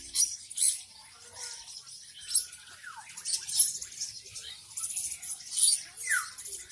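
Many small caged birds chirping together in high, quick calls, with a downward-sliding call at about three and six seconds.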